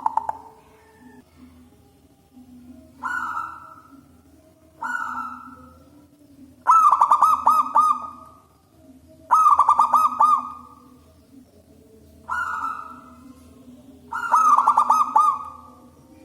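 Zebra dove (perkutut) cooing: six phrases a couple of seconds apart, short single coos alternating with longer phrases of four or five quick rolling notes. A faint steady low hum runs underneath.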